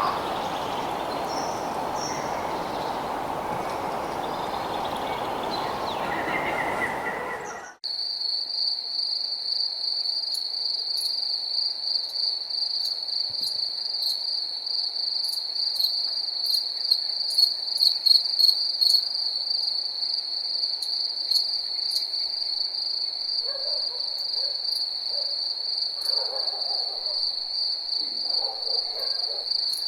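A steady noisy outdoor ambience with a few bird chirps cuts off abruptly about eight seconds in. Field crickets take over in a loud, unbroken high-pitched chirring, with fainter lower calls coming and going near the end.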